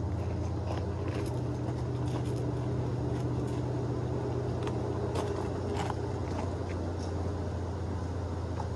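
Large honeybee swarm buzzing in a steady drone, with a few faint light ticks.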